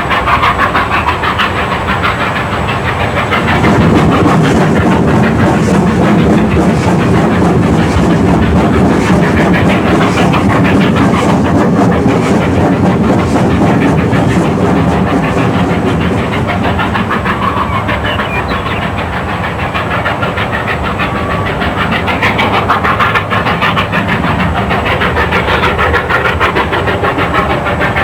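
Steam train running on the Georgetown Loop Railroad: the steady clatter of the cars on the rails mixed with the hiss of steam. It grows a little louder about four seconds in.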